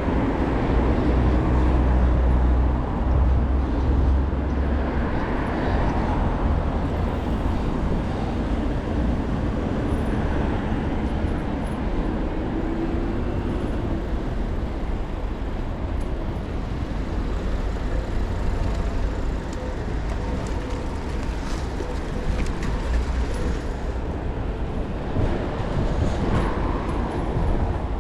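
Steady city street traffic heard from a moving bicycle, with a deep rumble that is strongest in the first five seconds.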